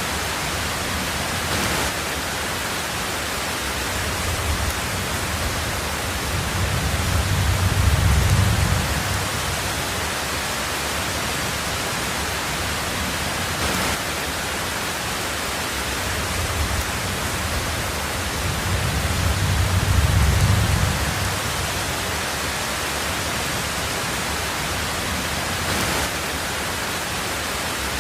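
Heavy rain falling steadily on a tin roof, a dense even hiss. Twice, about twelve seconds apart, a low roll of thunder swells up under the rain and fades away.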